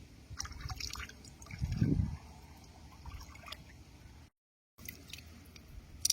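Water splashing and dripping in a run of small splashes, with a low thump about two seconds in. The sound drops out completely for about half a second past the middle.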